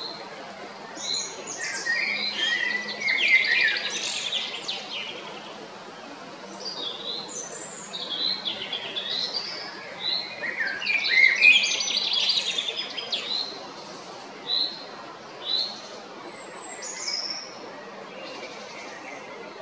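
Male common blackbird singing: two long song phrases, one starting about a second in and one about ten seconds in, each dense and twittering. Short high notes are scattered between them.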